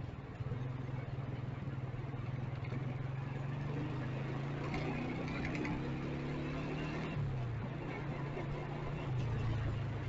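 Motorcycle engine running steadily in city traffic, its pitch dropping a little about seven seconds in and picking up again near the end.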